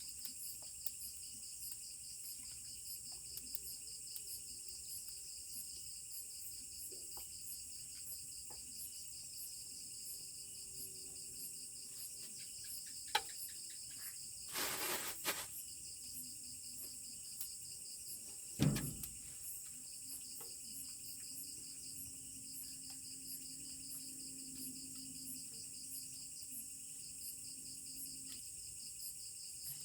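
Steady chorus of insects trilling in fast, even pulses, high-pitched. A sharp knock, then a second-long clatter about halfway through, and a single loud thump a few seconds later.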